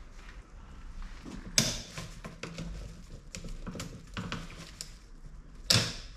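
Clicks and light knocks of window-regulator parts being handled and fitted together by hand, with two sharp, louder clacks, one about one and a half seconds in and one near the end.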